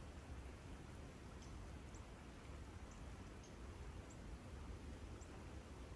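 Faint woodland ambience: a low steady rumble under a soft hiss, with a small bird giving short, very high call notes about once a second.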